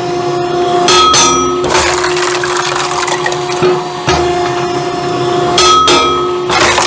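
Firewood separator running with a steady motor hum while split firewood pieces crack apart and knock against the machine in two loud bouts, about a second in and near the end.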